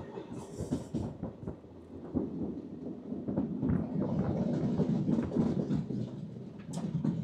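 Passenger train running along the line, heard from its vintage Schindler coach: a steady low rumble of wheels on rail and the coach body, with a few sharp clicks near the end.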